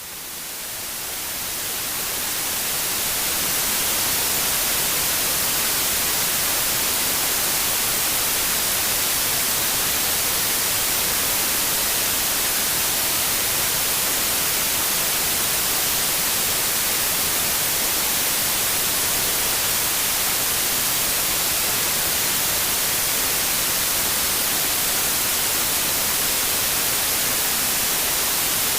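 Steady white noise, an even hiss strongest in the highs, fading in over the first few seconds and then holding level.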